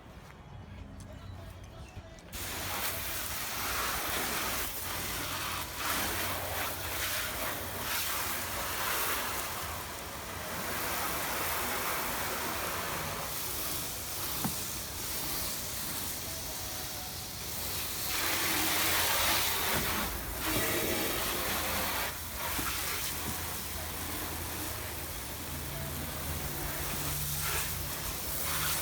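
Garden hose spraying water onto a car to rinse off soap, starting about two seconds in as a steady hiss that swells and fades as the spray moves. The water pressure is low, which the owner suspects is a kinked hose or a tap not turned up enough.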